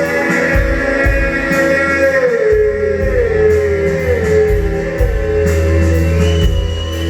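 Live rock band playing: sustained electric guitar with a falling stepwise melodic figure over a throbbing bass.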